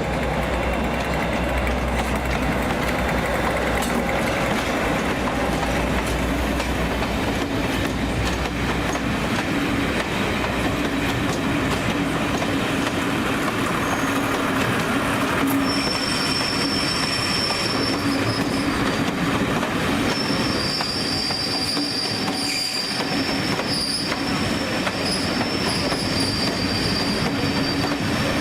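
Passenger train moving slowly through the station, wheels rolling steadily on the rails, with a low drone in the first nine seconds or so. From about halfway in, the wheels squeal with steady high tones.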